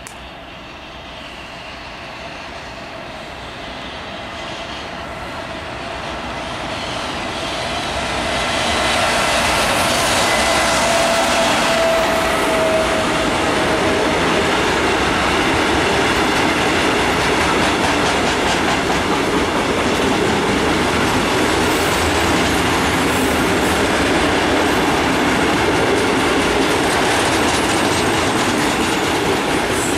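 Electric-hauled goods train approaching and passing through a station. It grows steadily louder for about the first nine seconds, then holds level as the long rake of open freight wagons rolls by with a steady rumble and rattle of wheels on rail. A brief whine can be heard from about ten to fourteen seconds in.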